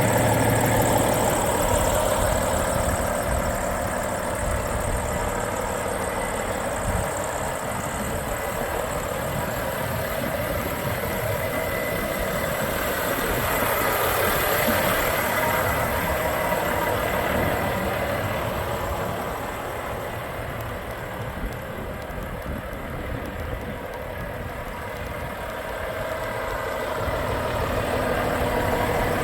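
Volvo FH 460's 13-litre inline-six diesel engine idling steadily, its level dipping a little past the middle and rising again near the end.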